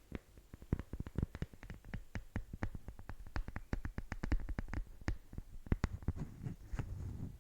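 ASMR tapping on an object's surface: quick, irregular light taps, several a second, with soft scratching mixed in near the end.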